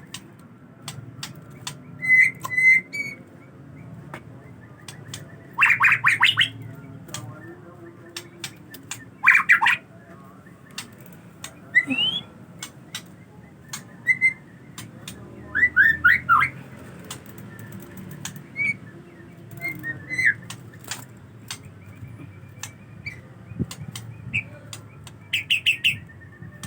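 Male white-rumped shama (murai) singing in short, separate bursts of quick sweeping chirps and whistles, with sharp clicks in between.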